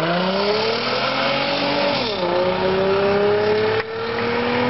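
Infiniti G35's V6 engine accelerating away, its pitch rising, dropping at an upshift about two seconds in, then climbing again more slowly in the next gear.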